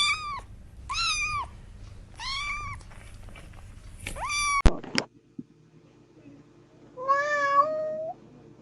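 Kitten meowing: four short, high-pitched meows about a second apart, then after a pause one longer meow that rises in pitch near the end. A sharp click sounds about halfway through.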